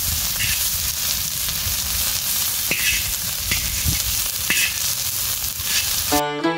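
Mixed vegetables sizzling in hot grease in a wok as they are stir-fried, with a few scrapes and taps of a metal spoon against the pan. Music cuts in just before the end.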